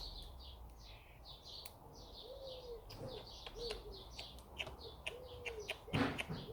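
Small birds chirping over and over, with a pigeon cooing in a run of about five short, arching notes from about two seconds in. A few light clicks and one brief, louder rustle near the end.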